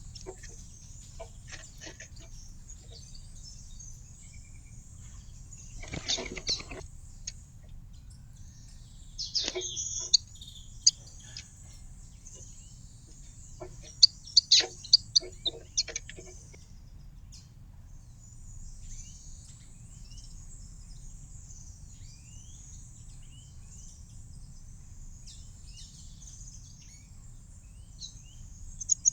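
Small birds chirping and calling around a garden feeder, a steady high chatter of birdsong over a low background rumble. A few loud sharp taps and clicks stand out, several in quick succession about halfway through.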